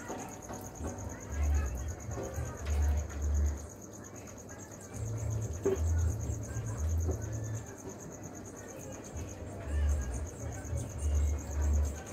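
Steady, rapidly pulsing high-pitched insect trill, like crickets chirping. Low bass notes come and go beneath it.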